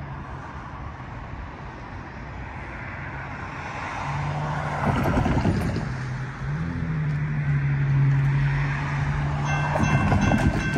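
Low steady drone of the approaching Amtrak train's Siemens Charger diesel locomotive, stepping up a little in pitch partway through, while cars swish past on the wet street. Near the end the grade-crossing warning bells start ringing.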